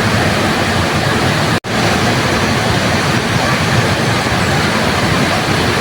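Waterfall rushing, a loud, steady wash of falling water, cut by a momentary dropout to silence about a second and a half in.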